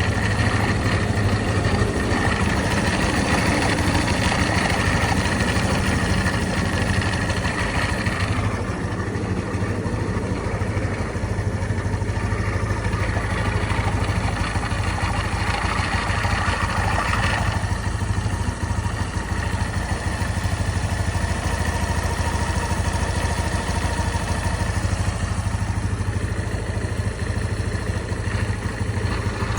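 GY6-type 125cc four-stroke single-cylinder scooter engine idling with an extra high-pitched mechanical noise on top. The noise drops out about eight seconds in, comes back for a couple of seconds in the middle, and returns faintly near the end. It is a noise that goes away when the scooter is tilted.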